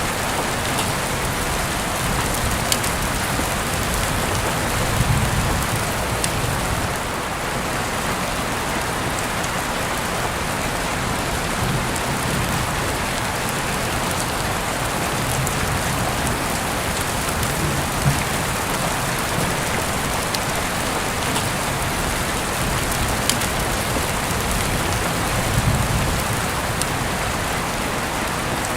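Heavy rain falling steadily, with scattered sharp drop taps and a few brief low swells.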